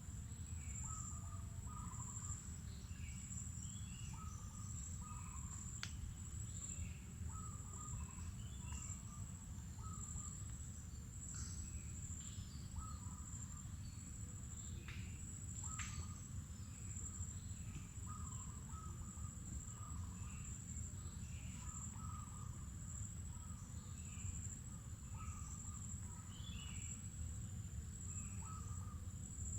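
Insects keep up a steady high-pitched drone while birds give short chirping calls over and over, over a low background rumble. A couple of faint sharp clicks stand out, about six and sixteen seconds in.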